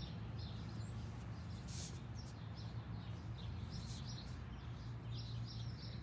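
Small birds chirping repeatedly in the background over a steady low hum, with a couple of brief soft rustles.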